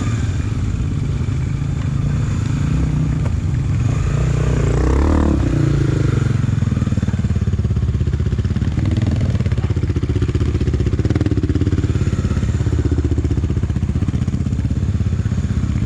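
Honda XRE300 single-cylinder four-stroke motorcycle engine running under way, with a brief rise and fall in revs about five seconds in, then a steadier note with small changes in pitch.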